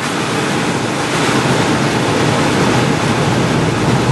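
Strong wind rushing over the microphone: a loud, steady noise without any pitch.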